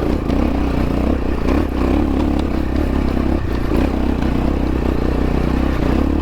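Xpro Templar X dirt bike engine running under load, its note rising and falling a little as it climbs a steep hill, with occasional knocks and clatter.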